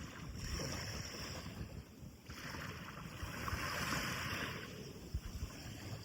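Sea of Japan surf washing onto the beach: two waves break and run up in turn, the second louder, over a low rumble of wind on the microphone.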